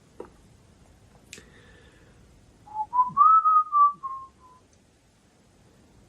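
A person whistling a short phrase of a few notes that steps up in pitch and then falls away, lasting under two seconds, about three seconds in. A light click comes a little before it.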